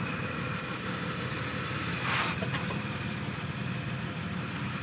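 Off-road 4x4's engine running low and steady at crawling speed while being eased down a rock ledge. A short burst of noise comes about two seconds in.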